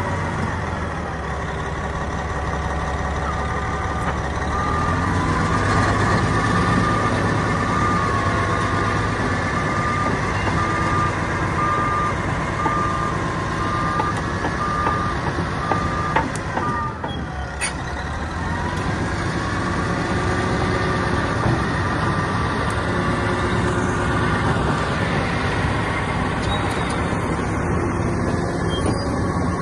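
Caterpillar D10R bulldozer's diesel engine running under load, with its reversing alarm beeping steadily through the middle as the dozer backs up. About two thirds of the way through, the beeping stops and the engine pitch dips and climbs again as the machine changes direction.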